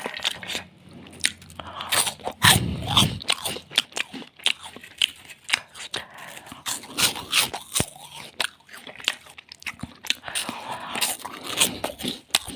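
Close-up crunching and chewing of Kurkure, crisp fried corn puff snacks, with many sharp irregular crackles several times a second as the pieces are bitten and broken between the teeth.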